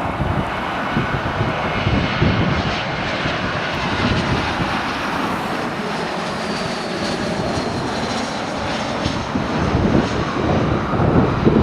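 Airbus A321-131 airliner with two IAE V2500 turbofans passing on its landing approach: a steady, loud jet engine noise with a deep rumble, and a faint high whine about halfway through.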